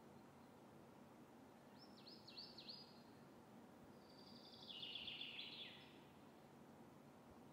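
Faint bird song over quiet room hiss: a quick run of about four short falling chirps about two seconds in, then a longer twittering phrase a couple of seconds later.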